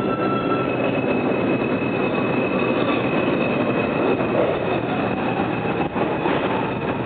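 R142 subway train running through the station: a loud, steady rumble of wheels and motors with a thin, high, steady squeal over it.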